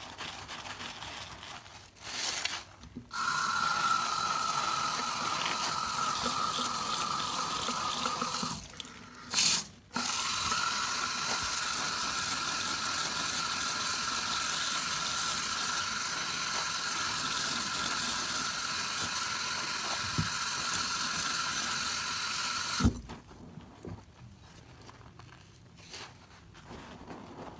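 Water running from a tap into a sink, a steady rush with a faint whistling tone. It comes on about three seconds in, stops for a second or so around nine seconds, runs again, and is shut off with a click near the end.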